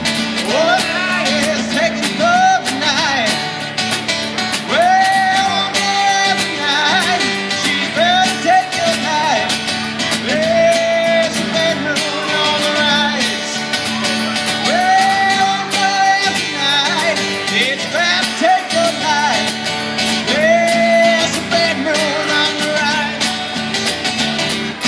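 A song sung with a strummed guitar accompaniment: a single voice holds long notes over a steady rhythm.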